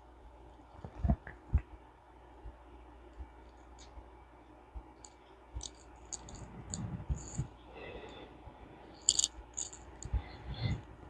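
Scattered small clicks and light taps of metal reel parts being handled while a push-button fishing reel is put back together. The two sharpest knocks come about a second in, with a run of faint high ticks later on.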